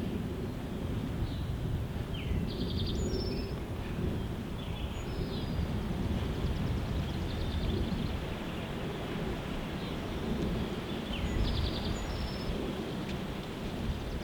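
Wind buffeting the microphone with a steady low rumble, while small birds chirp and trill a few times in the background.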